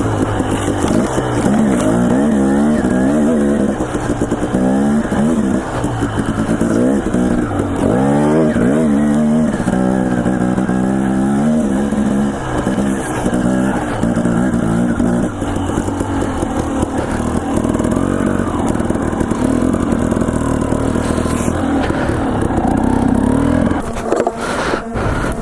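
Dirt bike engine revving up and down as it is ridden, its pitch climbing and dropping with each throttle change. Near the end the engine sound breaks off abruptly with a short clatter.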